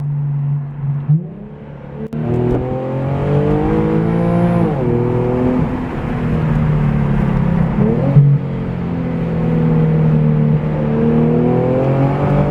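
Infiniti G37 sedan's V6 engine through a Topspeed axle-back exhaust, accelerating hard: the revs climb, fall away sharply about five seconds in, surge and dip again around eight seconds, hold steady, then climb again near the end. Heard from inside the cabin with the windows up; a clean exhaust note.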